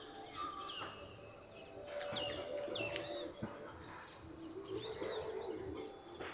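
Birds chirping faintly: a handful of short, separate high chirps spread over several seconds, with a lower held note in between.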